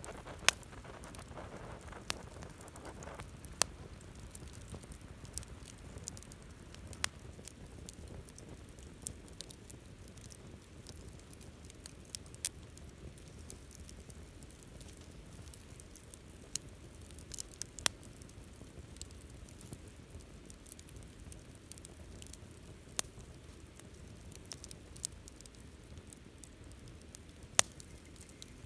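Campfire crackling: a low steady hiss of burning wood, with sharp single pops every few seconds.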